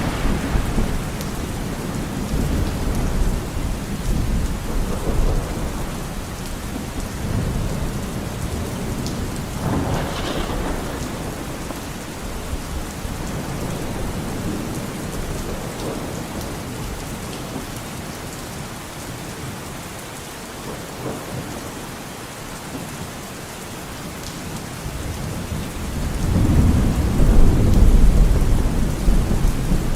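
Steady heavy rain with rolling thunder: a constant hiss of rainfall under low rumbles that swell and fade, the loudest rumble building near the end.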